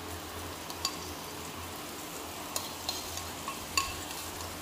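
Chopped onion and garlic frying in oil in a pot, a quiet steady sizzle, with a few light clicks of a metal spoon scraping curry paste off the inside of a ceramic bowl.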